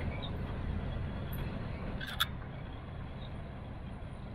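Low steady rumble of a diesel train at the station, with one short click about two seconds in.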